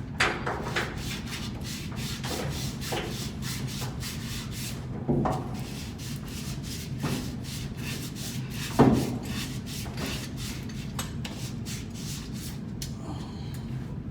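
Hand work on the metal parts of a blower assembly: quick rubbing strokes, about four a second, broken by three louder metal knocks, one at the very start, one about five seconds in and one about nine seconds in. A steady low hum runs underneath.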